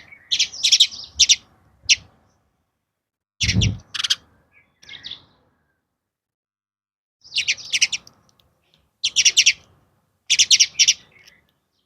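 Small bird chirping in short bursts of rapid, high chirps with silent gaps between them, and a low thump about three and a half seconds in.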